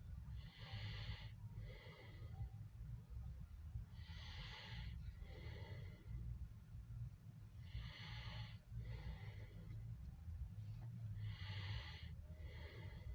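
A person breathing close to the microphone, in and out in slow pairs about every three and a half seconds, over a low steady rumble.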